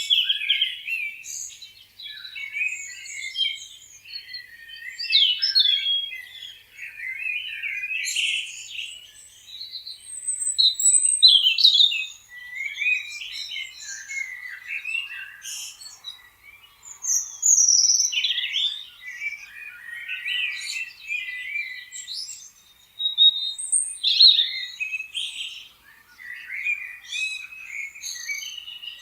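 Several songbirds chirping and singing at once: short overlapping chirps, trills and quick sweeping notes, high-pitched and continuous.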